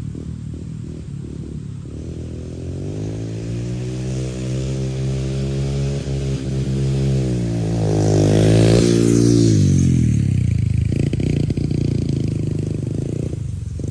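Pit bike engine revving higher and higher as it accelerates on a run at a dirt hill, loudest about eight seconds in. The pitch then drops away quickly, and the engine runs on lower and rougher near the end.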